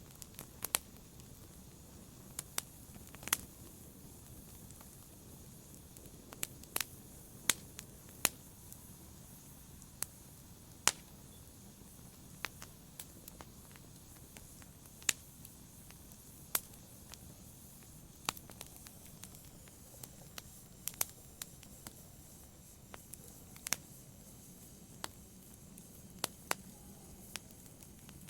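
Wood fire crackling in a fireplace: sharp pops at irregular intervals, a little over one a second, over a faint steady hiss.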